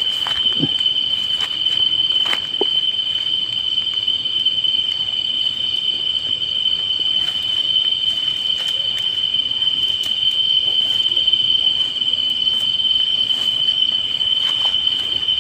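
Night insects calling in one unbroken, steady high-pitched drone, with a few faint clicks and rustles here and there.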